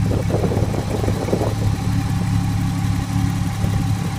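Porsche 911 Carrera 4S's 3.8-litre flat-six boxer engine idling steadily.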